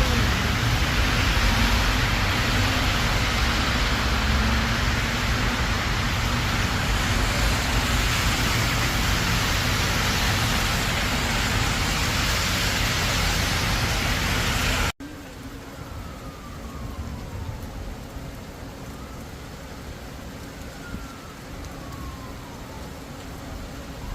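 Steady loud rushing noise, rain-like, that cuts off abruptly about fifteen seconds in, giving way to a quieter hiss with faint gliding tones that fall and rise.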